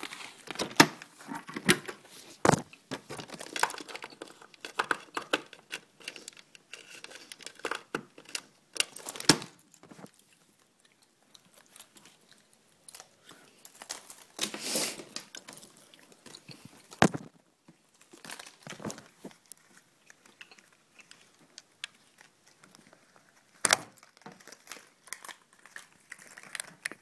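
Irregular rustling and crinkling with scattered sharp clicks and knocks, the sound of things being handled; no engine is running.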